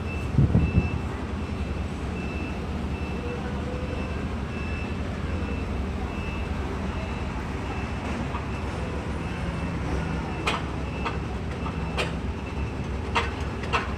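Heavy vehicle engine idling with a steady low rumble, under a high warning beep that repeats about twice a second. A low thump comes right at the start, and a few sharp knocks come in the last few seconds.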